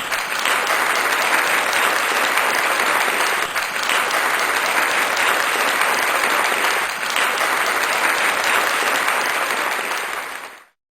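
Audience applause: a steady wash of many hands clapping, cutting off suddenly near the end.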